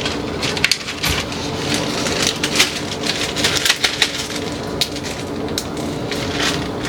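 Plastic bags and packaging crinkling and rustling as cookies are bagged, with many small, sharp, irregular crackles.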